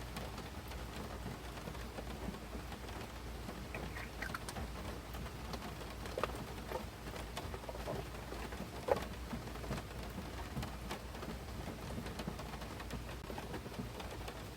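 Rain falling, with scattered drops ticking sharply on a nearby surface over a steady wash.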